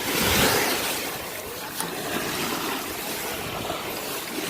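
Ocean surf washing up onto the sand, a wave rushing in near the start and then a steady hiss of water.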